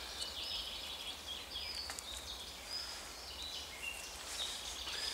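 Songbirds singing, many short high chirps and trills overlapping, with a sharp click about two seconds in and another near the end.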